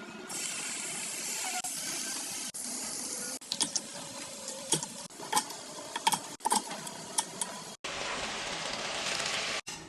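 Chicken pieces sizzling as they fry in hot oil in a pan, a steady hiss. In the middle stretch a utensil clinks against the pan several times as the chicken is stirred.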